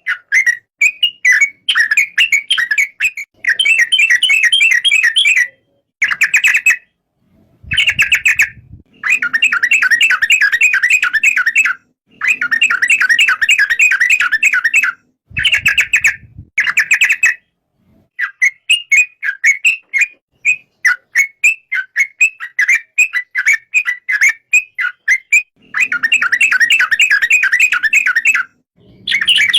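Yellow-vented bulbul (burung trucuk) singing: phrases of rapid bubbling chirps, each about one to three seconds long, broken by short gaps.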